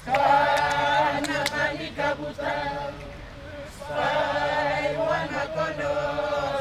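A group of voices chanting together, unaccompanied, in a traditional song: one long phrase at the start, a lull, then a second phrase starting about four seconds in.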